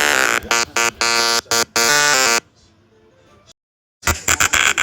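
An electronic beeping tune of short, buzzy notes stepping up and down in pitch. It stops about two and a half seconds in, and after a short silence more buzzy electronic notes start near the end.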